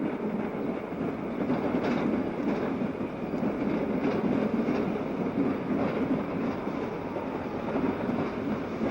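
Train rolling past: a steady rumble with a few faint clicks from the rails.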